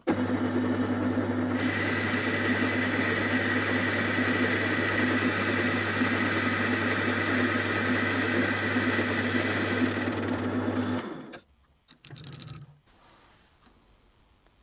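Metal lathe running with a boring bar taking a light finishing cut inside the bore of a cast iron collar. The steady motor hum is joined by a hissing cutting noise about a second and a half in, and everything stops at about eleven seconds.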